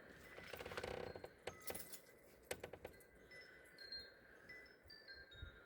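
Faint metallic chiming: scattered high ringing notes that hang on, with a few soft knocks, a little busier about a second in.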